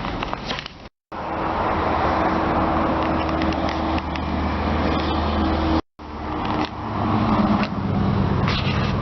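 2002 Nissan Pathfinder's 3.5-liter V6 idling steadily, heard at the exhaust. The sound cuts out completely twice, briefly, about a second in and again near six seconds.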